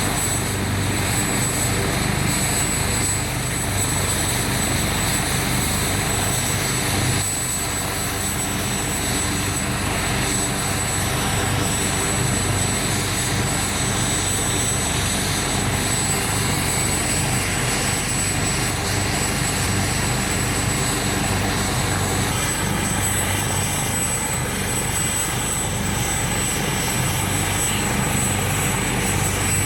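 Maryland State Police medevac helicopter running on the ground with its rotors turning, a steady, unchanging drone.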